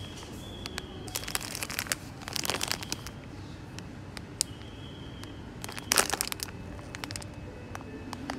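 Crinkling and rustling handling noise with many scattered light clicks, loudest in short stretches about a second in, at two and a half seconds, and around six seconds.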